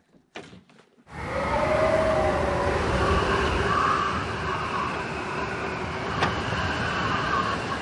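A motor vehicle running and moving, a steady rumble of engine and road noise, starting suddenly about a second in, with one sharp click near the end.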